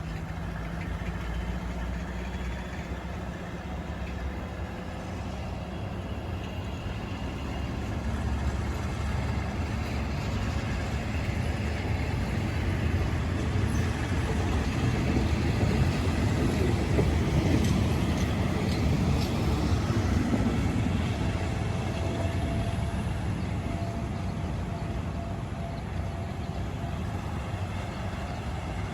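Thai passenger train running on the rails, a steady rumble that builds to its loudest about halfway through, with sharp clicks from the wheels and track, then slowly fades.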